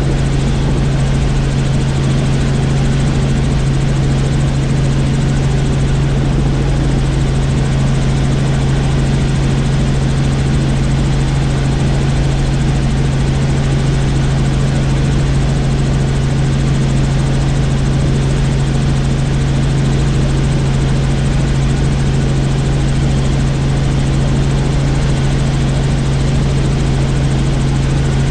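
Helicopter in flight: a loud, steady drone of rotor and engine with a strong, unchanging low hum.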